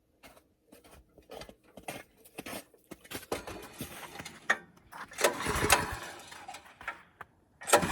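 Scattered clicks, knocks and scraping noises of a snowblower being handled and readied, with a longer rough burst of noise about five seconds in, just before its engine starts.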